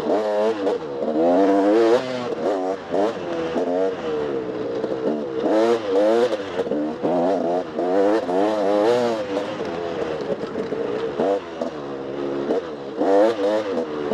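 Dirt bike engine ridden hard off-road, its pitch constantly rising and falling as the throttle is opened and rolled off every second or so.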